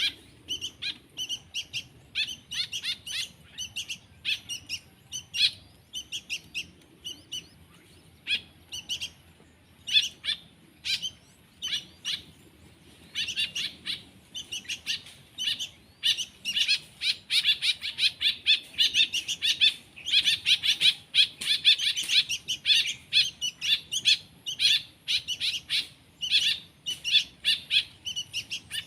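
Young songbird chicks chirping: rapid, repeated short high calls, the typical begging calls of hand-reared nestlings at feeding time. The calls come in scattered clusters at first and run together almost without a break through the second half.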